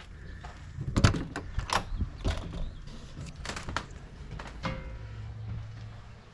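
Travel trailer's entry door being opened and someone stepping up inside: a run of irregular knocks and clicks, the loudest about a second in.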